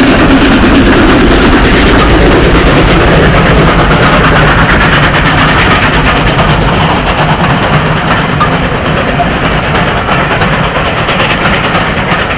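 A steam-hauled train running close past at speed, a loud steady rumble and rattle of locomotive and carriages on the rails. It gradually fades toward the end as the train moves away, leaving separate clicks of wheels over the track.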